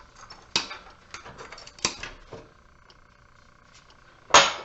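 Scattered light clicks and clinks of metal parts as an HID light fixture is handled and taken apart for scrap, with one louder, short clatter near the end.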